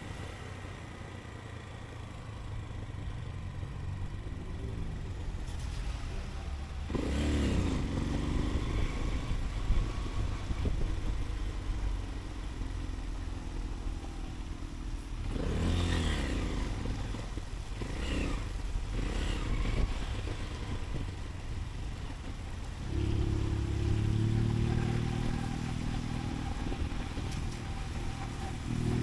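Motorcycle engine running under way, revving up and easing off several times: one sweep about a quarter of the way in, a cluster of quick rises and drops through the middle, then a steadier, louder run near the end. A low road and wind rumble lies under it throughout.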